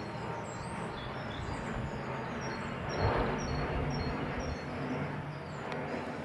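Aeroplane with its landing gear down, low on approach, passing over as a steady broad rumble that swells slightly about three seconds in. Small birds chirp over it with short, high, repeated notes.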